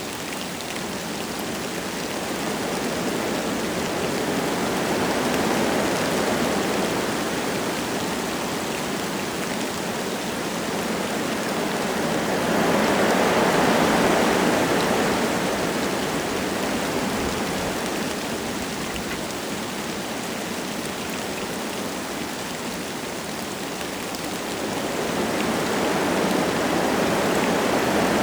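Wind gusting through forest trees with light rain falling, a continuous rushing that swells and eases in slow gusts, loudest about halfway through.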